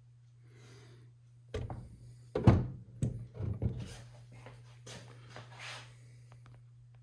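Handling noises in a wooden clock case: a few knocks and thunks, the loudest about two and a half seconds in, then softer rubbing near the end, over a steady low hum.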